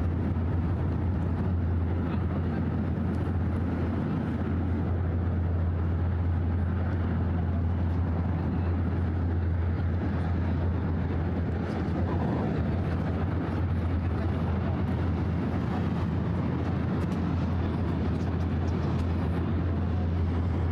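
Steady city traffic rumble with a constant low hum underneath, unchanging throughout.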